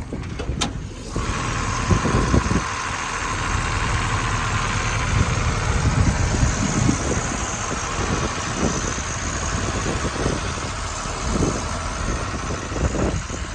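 Engine of a 1976 Chevrolet truck running with a steady low rumble. About a second in, a steady hiss comes on abruptly and holds to the end.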